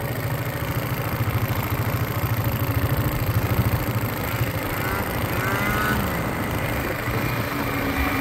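Rotax 670 two-stroke snowmobile engine (from a Ski-Doo MXZ 670) running in a Honda Pilot, a steady rapid low pulsing that gets a little louder near the end.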